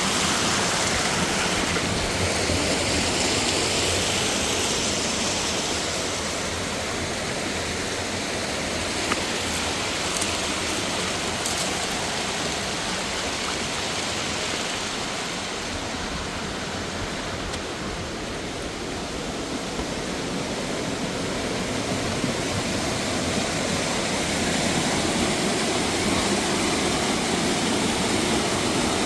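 Mountain waterfall and stream water rushing over rocks, a steady full rush that eases a little midway and swells again.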